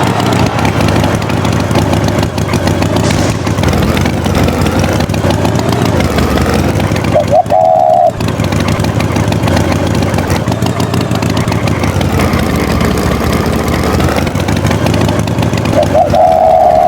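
Tractor engine running steadily, with a short high-pitched tone about seven seconds in and again near the end.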